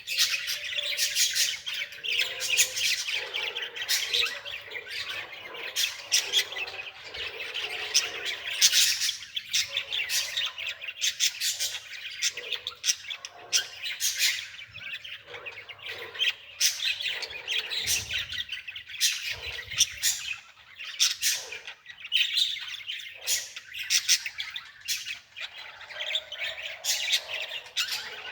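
Small birds chirping in a rapid, continuous stream of short calls.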